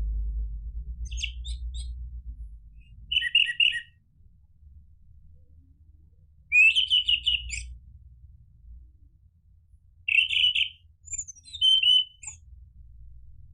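Orange-headed thrush singing in short, separate phrases with pauses between them, the longest and loudest about halfway through. A low rumble lies under the first few seconds.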